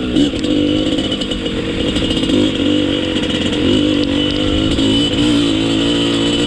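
Dirt bike engine running under changing throttle, its pitch rising and falling several times.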